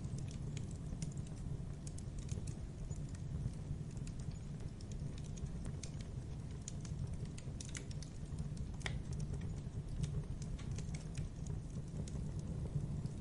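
Wood fire burning: a steady low rumble of flames with irregular crackles and small pops, and one sharper pop about nine seconds in.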